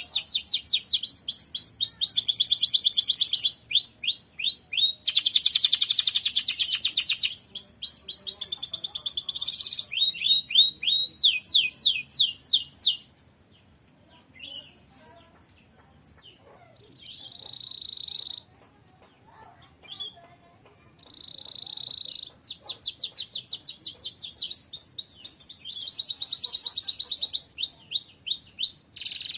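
Domestic canary singing in long, fast trills of rapidly repeated notes. About halfway the trilling stops for several seconds, with only a few short notes and two brief held whistles, then the fast trills start again.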